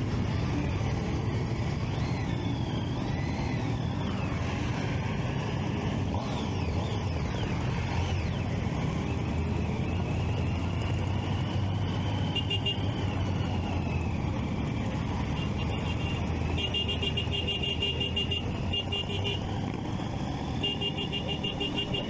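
Motorcycle and traffic engines running in a group ride, with pitches rising and falling as bikes rev. From about halfway through comes a rapid, high, pulsing electronic beeping in several short bouts, like a car alarm.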